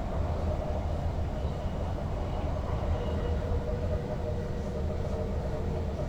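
Cab of a Dutch Sprinter Lighttrain (SLT) electric train under way: a steady low rumble with a faint constant whine.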